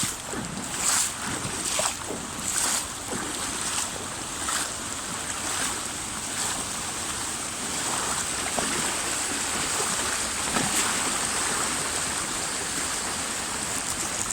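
Fast-flowing floodwater rushing past a person wading in waders. For the first few seconds there is a splash about once a second as the feet push through; after that the rushing is steady.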